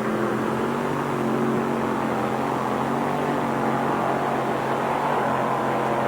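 Mini modified pulling tractor's engine running hard at high, steady revs under load during a pull down the track.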